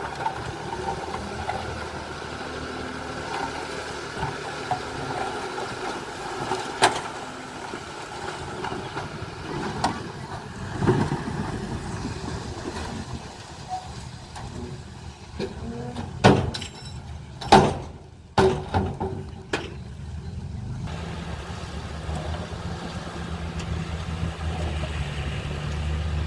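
Heavy earthmoving machinery running, with a steady engine rumble. About two-thirds of the way through come several loud sharp knocks in quick succession, then a steady, stronger engine note.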